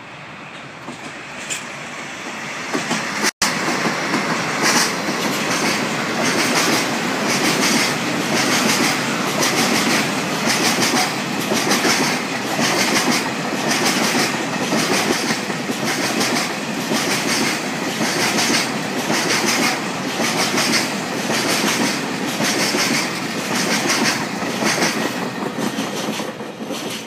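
Freight train passing close by: the sound of the two DD51 diesel-hydraulic locomotives builds as they approach, then a long string of Taki 1000 tank wagons rolls past with a steady rumble and regular clickety-clack of wheels over rail joints, fading near the end. The sound cuts out completely for an instant about three seconds in.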